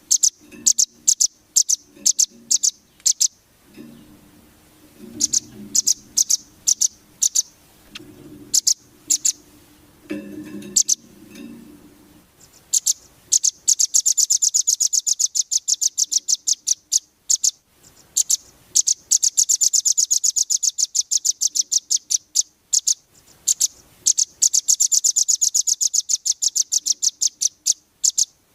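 Songbird song played as a masteran training recording: high, sharp chirps in short groups, then three long runs of fast trilled notes.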